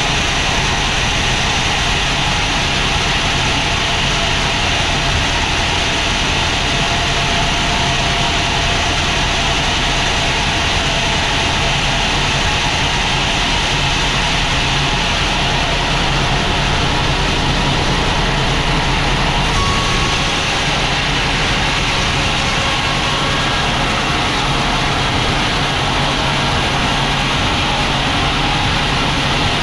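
Sawmill machinery running steadily: a low engine hum under a continuous noisy hiss, with no breaks.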